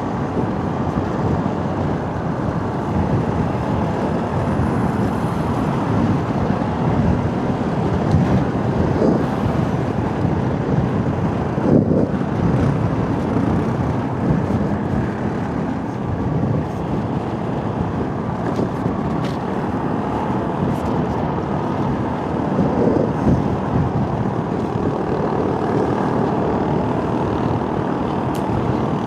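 Motorcycle riding on a rough, potholed road: the engine and wind and road noise run steadily, with a few brief louder surges.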